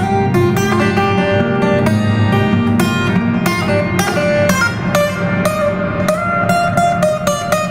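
Guitar music: plucked and strummed notes over a steady low accompaniment.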